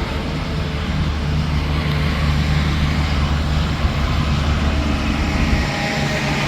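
Semi-truck passing on an interstate highway: a steady low engine drone over tyre and traffic noise, the drone cutting off near the end.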